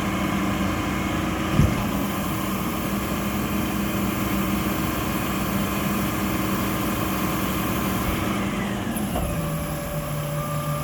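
Mack LR garbage truck's diesel engine running with a steady drone, with a single knock about one and a half seconds in. About eight seconds in, the drone drops in pitch and settles at a lower, steady note.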